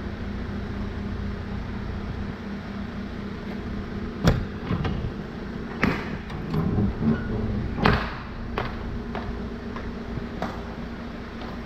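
Hyundai Porter light truck's engine idling steadily, with a few sharp knocks and clunks: the loudest come about four, six and eight seconds in, with lighter clicks between and after.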